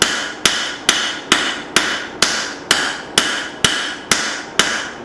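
Blacksmith's hammer planishing a hot leaf-spring hatchet head on the anvil, smoothing out peen marks: steady blows a little over two a second, each ringing briefly.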